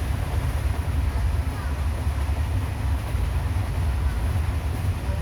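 Passenger train coach running along the track: a steady low rumble with a haze of noise over it.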